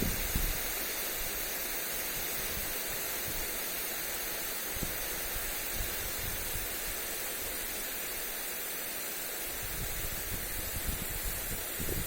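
Steady hiss of a lawn sprinkler's spray falling on grass, with wind buffeting the microphone at the start and again in the last couple of seconds.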